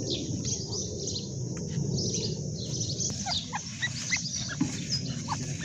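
Birds chirping: many short, high chirps and quick falling notes, coming thicker about halfway through, over a steady low rumble of background noise.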